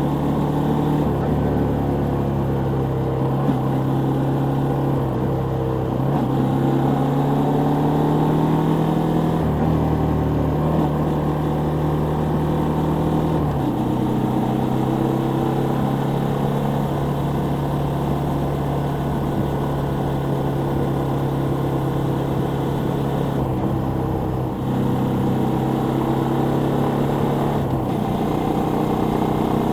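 Suzuki Volty 250 (TU250) air-cooled single-cylinder engine running steadily, its pitch holding level and shifting up or down a few times as engine speed changes.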